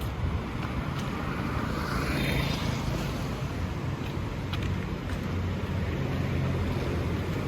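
City street traffic at night: a steady low rumble of vehicles, with one vehicle passing closer and louder about two seconds in.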